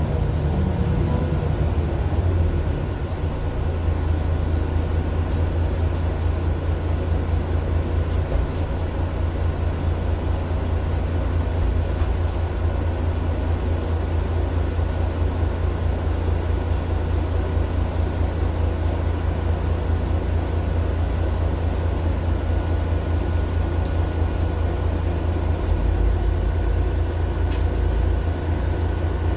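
Mercedes-Benz Citaro LE city bus with a Daimler OM 457 hLA six-cylinder diesel engine, running steadily and heard from inside the passenger cabin as a deep, even drone. A faint high whine joins about three-quarters of the way through.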